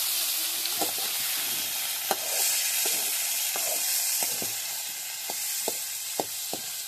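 Boiled chickpeas and potato pieces sizzling as they fry in a kadhai, with a steady hiss. A metal spatula stirs them, clicking and scraping against the pan a dozen or so times at uneven intervals.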